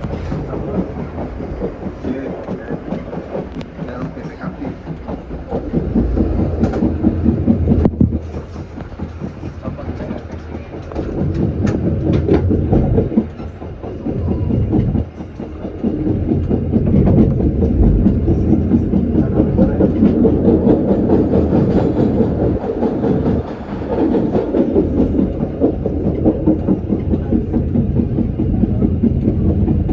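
Passenger train running along the rails: steady wheel-on-rail rumble with rapid clattering from the wheels over the track, swelling and easing in loudness several times.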